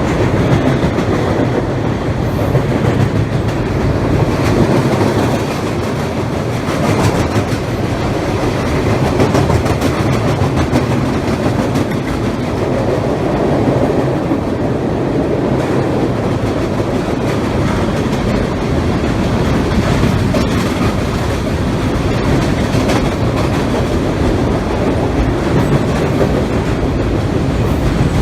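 Kansas City Southern freight train rolling steadily across a river trestle, its cars clattering over the rail joints in a continuous loud rumble.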